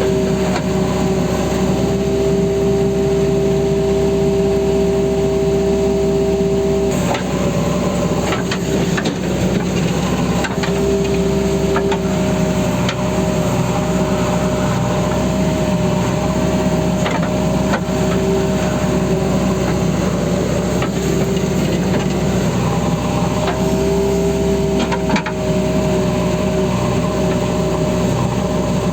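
JCB backhoe loader's diesel engine running steadily, with a high whining tone over it that drops away and comes back, and a few sharp knocks now and then.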